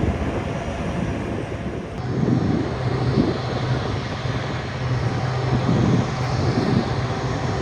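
Airplane engine noise at an airshow: a steady rushing, droning sound that changes abruptly about two seconds in, after which a low steady hum joins it.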